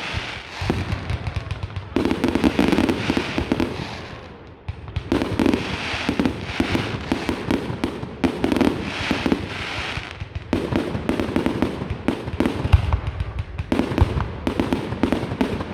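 Fireworks display: volleys of dense rapid crackling, each lasting a few seconds with short lulls between, and a few deep booms near the end.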